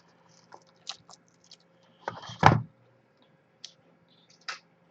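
Scattered light clicks and rustles of a trading-card box being handled and opened, with one louder knock about two and a half seconds in.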